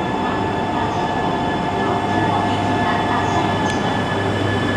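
Shinkansen train at the platform: a steady rumble and hiss with several high, steady whining tones over it and no change in pitch.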